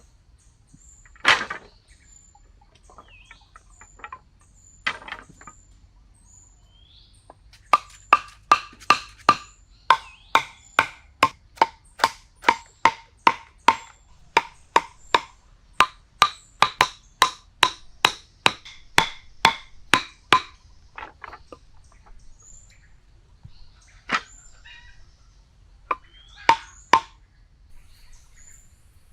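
Sharp knocks struck one after another, two single ones first, then a steady run of about two a second lasting some thirteen seconds, then a few more. Faint high chirps sound between the knocks.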